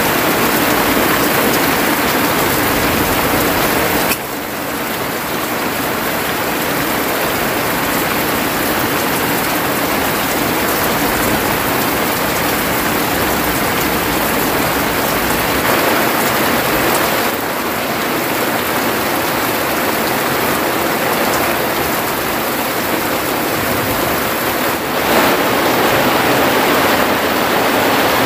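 Heavy rain pouring steadily on a thatched shelter roof and the forest around it, a dense, even hiss of falling water. The level dips a little about four seconds in and swells again near the end.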